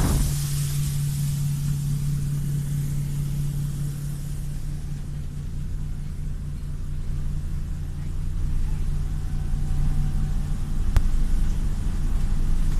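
Steady low drone of the Voskhod hydrofoil's diesel engine, with a strong, even hum. There is one faint click near the end.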